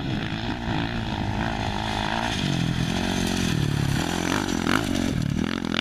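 Off-road race motorcycle engine coming by under throttle, its note rising and falling, with a lower pitch from about two to four seconds in.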